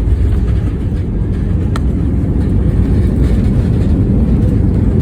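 StarFlyer jet airliner landing: a steady low rumble that grows slightly louder, with one sharp click about two seconds in.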